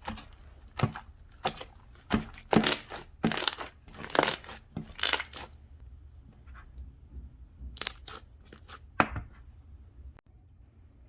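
Slime being squished and poked by hand, giving a quick run of sharp crackling pops for about five seconds, then a few single pops near the end.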